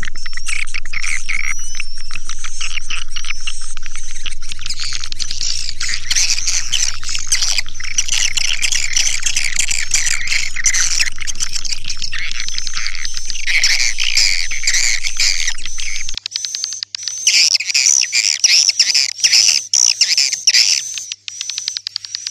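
Edible-nest swiftlets calling in a dense, rapid, high-pitched chatter of twittering chirps, with a faint steady low hum underneath; about three-quarters of the way through the hum drops and the chirping turns into a more broken run of calls.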